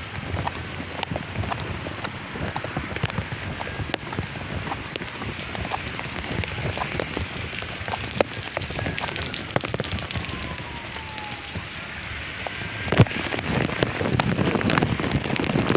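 Rain falling steadily, with many individual drops tapping close by. A faint falling tone runs from about nine seconds in, and there is a single louder knock near the end.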